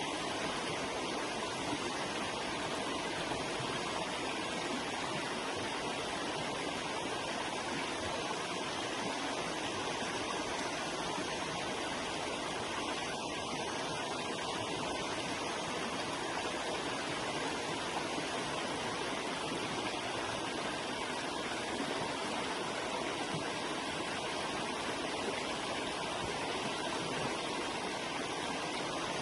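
Forest river water rushing and babbling, a steady even flow with no breaks.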